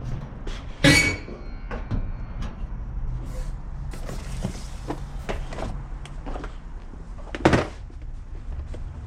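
Hand tools and parts being handled: scattered clinks and clanks, with a louder clank about a second in and another near the end, over a steady low hum.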